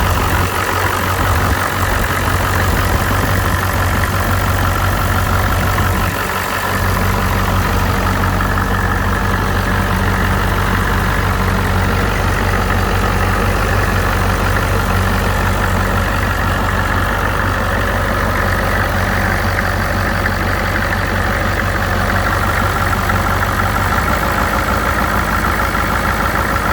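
1987 Ford F-250's 6.9 L V8 diesel idling steadily just after a cold start.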